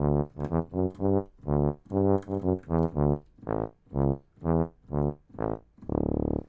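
Sampled tuba patch of the Bismark bs-16i sound-module app, played as a run of short, separate notes that ends on one longer held note, which cuts off suddenly.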